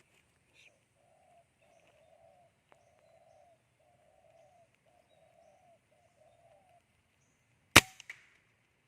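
Spotted dove cooing in an even run of soft, low notes, followed near the end by a single sharp crack of an air rifle shot, much louder than the cooing.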